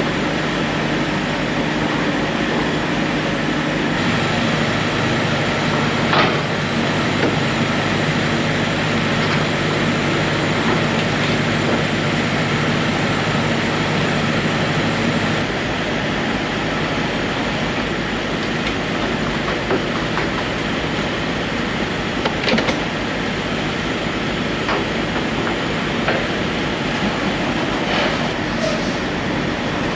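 Steady diesel rumble of a semi truck at a fuel pump, with a low engine hum that changes pitch about 4 seconds in and again around 15 seconds, and a few sharp clicks.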